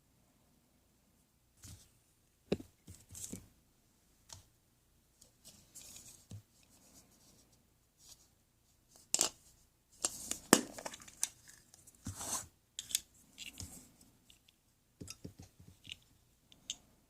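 Hands unwrapping and opening surprise eggs: irregular tearing and rustling of wrappers with sharp clicks and snaps, busiest in the middle.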